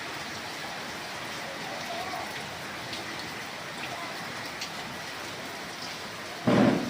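Steady rain falling, with a few single drops ticking. A short, louder burst of noise comes near the end.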